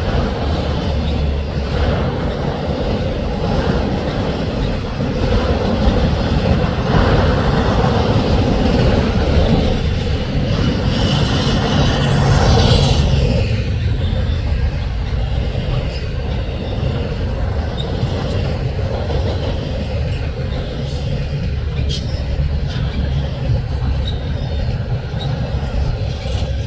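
Freight train's autorack and double-stack cars rolling past, a steady loud rumble of steel wheels on rail. A high wheel squeal rises briefly about halfway through, and sharp clicks and clanks come through in the second half.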